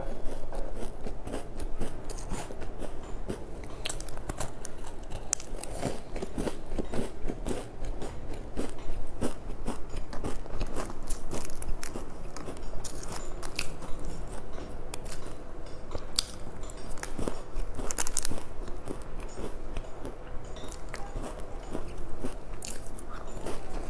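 Close-up eating sounds: chewing and biting through crisp pastry and crunchy snacks, with a steady stream of irregular crackly crunches.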